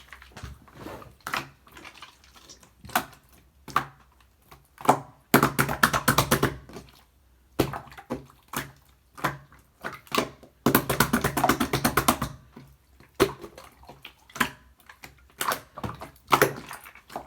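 Clear slime being squeezed and pressed by hand, making wet clicks and pops, with two longer runs of rapid crackling pops, about five and eleven seconds in.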